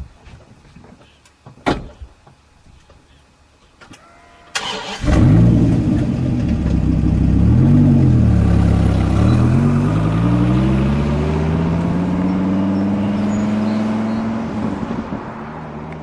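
A few light clicks and a sharp knock, then about four and a half seconds in the Dodge Charger R/T's 512-cubic-inch stroker V8 is cranked and fires up loudly. The engine note dips and rises once, then climbs slowly over several seconds.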